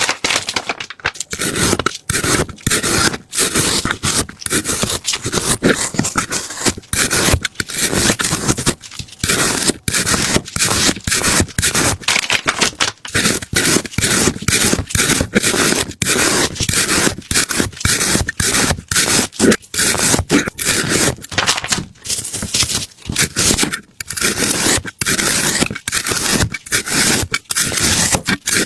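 Rapid repeated scraping, several strokes a second, loud and steady in pace with brief gaps between runs.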